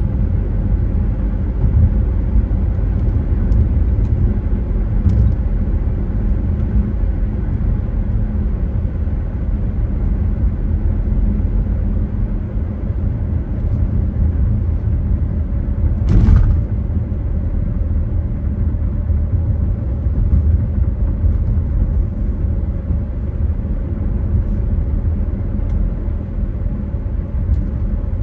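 Steady low road and engine rumble of a car driving, with one short, sharp thump a little past halfway.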